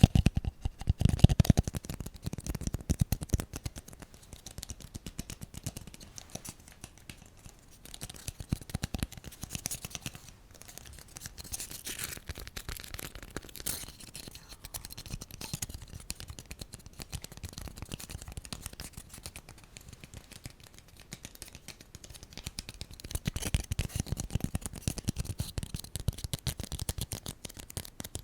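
Close-miked ASMR scratching and tapping on an object: a steady stream of quick, small strokes, heavier in the first couple of seconds and again near the end.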